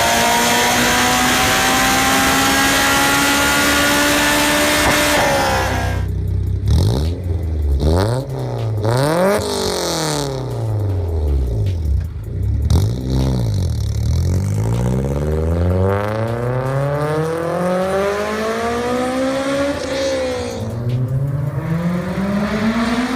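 Honda S2000 engine with a Tomei Titan exhaust, revving hard on a dyno. The pitch climbs high for about five seconds and then drops off abruptly. After that comes a series of revs rising and falling, some quick blips and some longer climbs.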